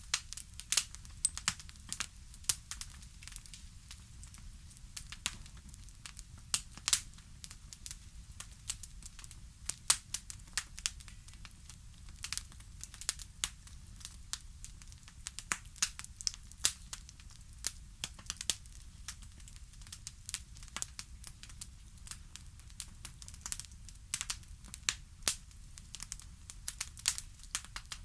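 Wood fire crackling: irregular sharp pops and snaps, several a second, some louder than the rest, over a faint low rumble.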